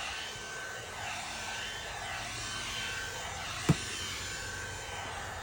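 Pet grooming dryer with a vacuum brush running steadily, a whirring rush of air with a faint steady whine. One short sharp click a little over halfway through.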